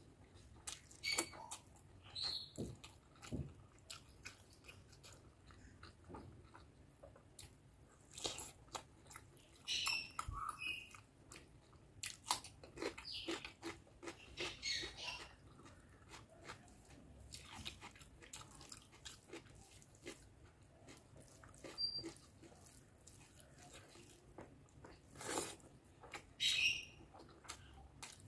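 Close-miked chewing of curry and rice, with wet mouth smacks and clicks coming in short, irregular spells separated by quiet gaps.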